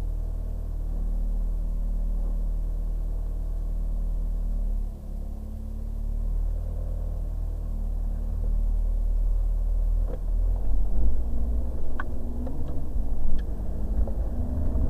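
Ferrari 430 Scuderia's V8 engine heard from inside the cabin, a steady low rumble while the car drives slowly. It dips briefly about five seconds in. From about ten seconds the note turns uneven, with a few sharp clicks near the end.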